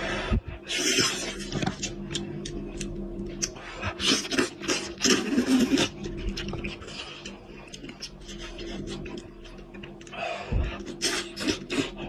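Close-miked eating of goat head meat: chewing, slurping and lip-smacking, an irregular run of wet clicks and noisy bursts, over a faint steady hum.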